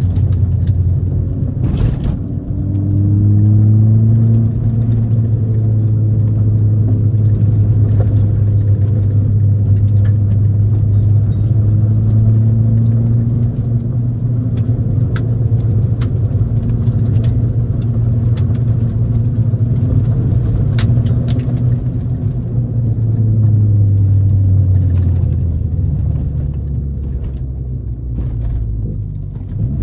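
Ford Fiesta ST's turbocharged four-cylinder engine droning at steady revs while driving, heard inside the cabin over road noise with occasional clicks and knocks. The engine eases off near the end as the drone drops lower.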